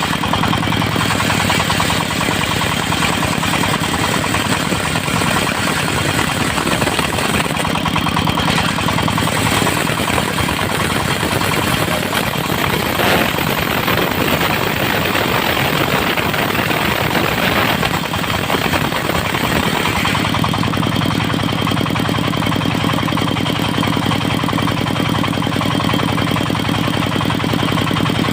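Engine of a portable circular-saw sawmill, likely a diesel, running steadily at speed. From about nine to twenty seconds in, the low engine tone drops back and a harsher, noisier sound takes over, then the steady engine tone returns.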